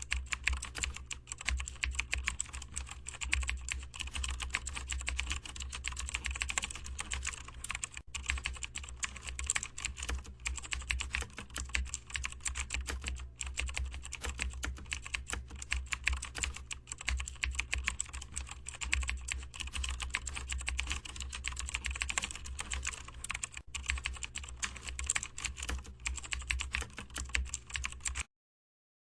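Continuous fast typing on a computer keyboard, a dense stream of irregular key clicks over a steady low hum, stopping abruptly near the end.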